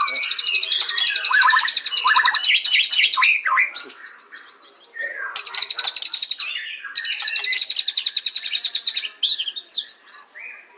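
White-rumped shama (murai batu) singing: long runs of very rapid, high trilled notes, three of them, mixed with lower whistled and slurred phrases.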